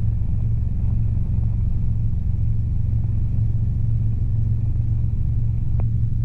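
Robinson R22 helicopter in flight, its engine and rotor making a steady low drone heard from inside the cabin. A faint click comes near the end.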